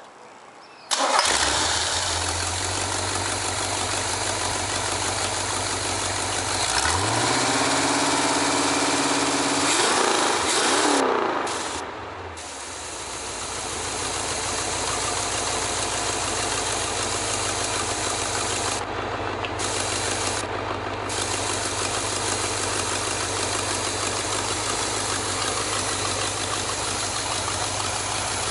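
A 350 cubic inch four-bolt-main small-block V8 truck engine starts about a second in and runs. Around seven seconds in it is revved up and held, drops back near twelve seconds, then settles into a steady idle. It is the first test run of an engine whose rust-seized piston rings have just been freed, still on its original cam.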